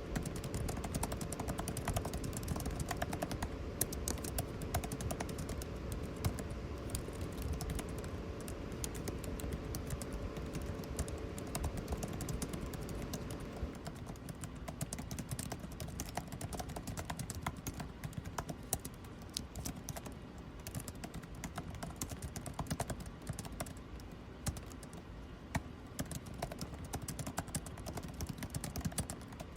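Computer keyboard typing in quick, irregular runs of key clicks over a steady air-conditioning noise. A steady hum underneath stops about halfway through.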